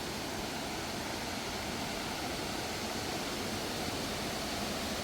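Steady rush of a waterfall and river water, an even noise that does not change.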